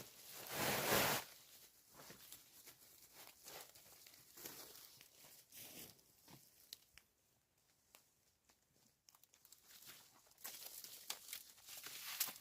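Rustling and crunching handling noises, with a louder burst about a second in, scattered small clicks and crackles, and another rustling stretch near the end.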